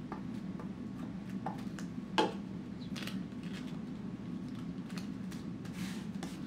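Scattered light crinkles and small taps of tissue paper being handled and pressed onto a glued paper collage, with one sharper tap about two seconds in, over a steady low hum.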